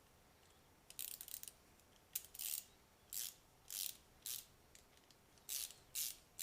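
Hand ratchet wrench being worked in short strokes: about nine brief bursts of clicking at uneven intervals.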